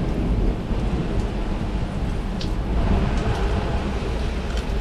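Heavy rain pouring, with a steady low rumble under it and a few sharp drop ticks.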